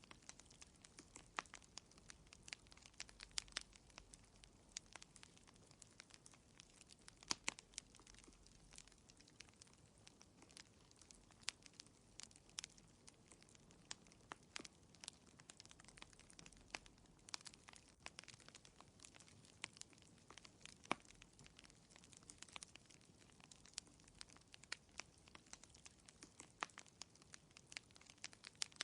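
Wood fire in a fireplace crackling quietly, with irregular small pops and snaps, a few louder than the rest, over a faint hiss.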